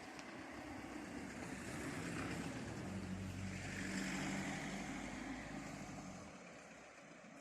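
A motor vehicle passing by: engine hum and tyre noise swell to a peak about four seconds in, then fade away.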